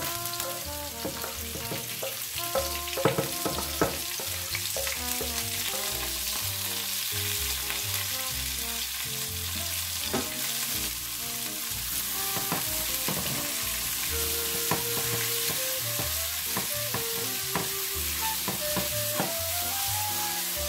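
Sliced pak choy and onion hit hot oil in a non-stick frying pan and keep sizzling as they are stir-fried over high heat, with scattered knocks and scrapes from stirring and tossing the pan. Background music plays along.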